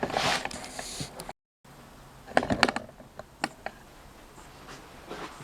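Scattered small clicks, knocks and rustling of objects being handled, broken by a moment of silence about a second and a half in.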